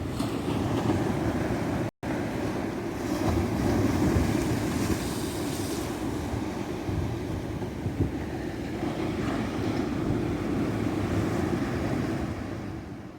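Ocean surf: waves breaking and washing up a beach in a steady rush that swells louder a few seconds in. The sound drops out for a split second about two seconds in and fades away at the very end.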